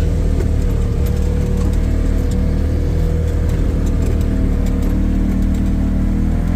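Engine of a snow-plowing vehicle running steadily, an even drone with no revving.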